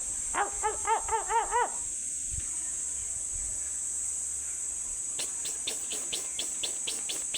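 A steady high insect trill runs throughout. Just after it starts come six quick rising-and-falling pitched calls from an animal, and from about five seconds in a fast run of clicking calls, about seven a second.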